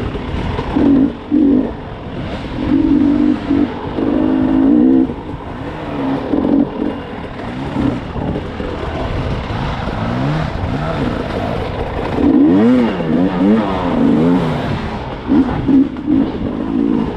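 Dirt bike engines revving up and down in short throttle bursts while riding single-track trail, the pitch rising and falling over and over; for a stretch after the middle two engines can be heard at different pitches gliding across each other.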